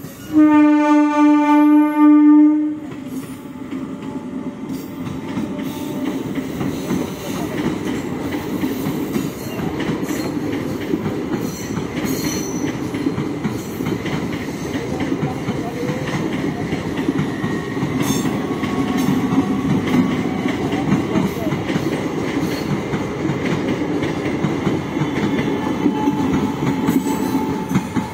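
MEMU electric multiple-unit train sounding one steady horn blast of about two and a half seconds at the start. Its coaches then rumble past on the rails at slow speed.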